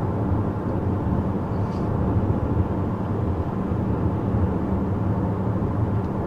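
Steady low hum and rumble inside the cabin of a moving 2014 Chevrolet Impala with the 2.5-litre four-cylinder: road and engine noise while cruising.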